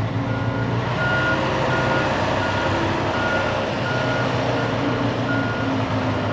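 Truck reverse alarm beeping at an even pace, about three beeps every two seconds, over a diesel truck engine running steadily as the tractor-trailer backs up.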